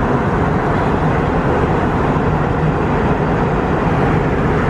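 Loud, steady rumble and rush of a moving vehicle, heard from inside it, with no breaks or changes.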